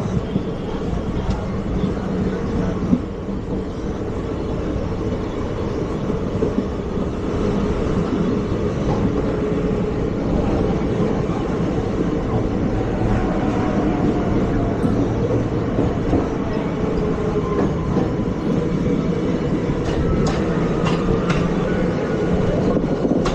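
ICF passenger coaches of an Indian Railways express running at speed: a steady rumble of wheels on track with clickety-clack, and a few sharp clicks in the last few seconds.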